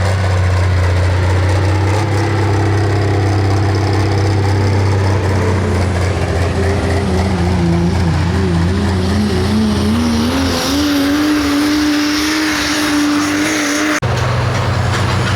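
Pro Stock pulling tractor's turbocharged diesel engine running hard. Its pitch wavers and then climbs steadily over the second half. The sound changes abruptly near the end.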